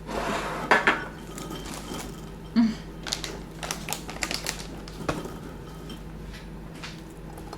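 Light clicking and clattering of cutlery and dishes: scattered taps, some in quick runs.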